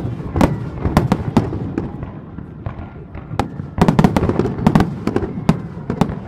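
Aerial fireworks shells bursting in rapid volleys of sharp bangs, with a denser barrage in the second half and a lull of scattered reports in the middle.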